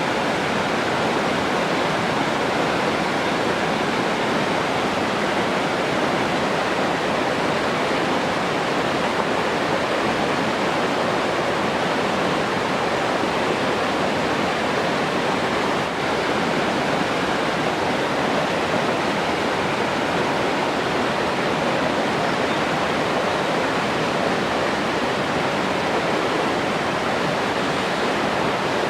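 Rushing water: a steady, unbroken wash of flowing water with no change in level.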